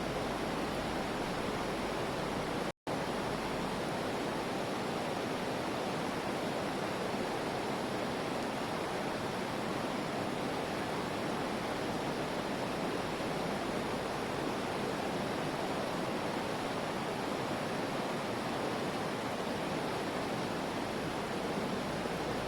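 Steady rush of the Putna waterfall's falling water, an even roar with no change, broken by a split-second dropout about three seconds in.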